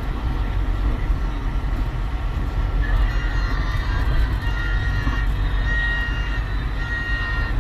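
Steady low rumble of a moving road vehicle heard from inside the cabin, with thin high held tones coming in about three seconds in.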